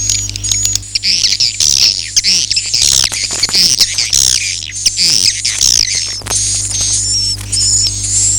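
Recorded swiftlet calls of the kind played to lure edible-nest swiftlets: dense, rapid high twittering chirps with quick clicks among them, over a steady low hum.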